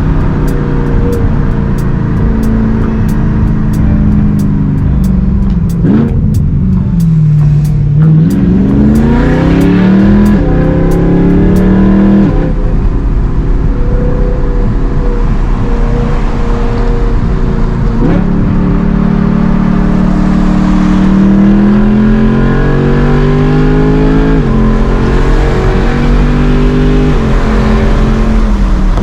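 BMW E92 M3's V8 with a loud exhaust, driven through the gears: the engine note climbs and drops sharply at each shift, around twelve, eighteen and twenty-four seconds in, after a dip and a steep climb between about six and ten seconds in.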